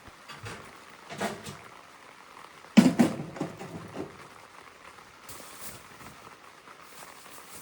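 A few light knocks and one sharp, loud clunk with a short clatter after it about three seconds in, as wood or gear is handled around the stove, over a faint steady hiss of rain on the tent.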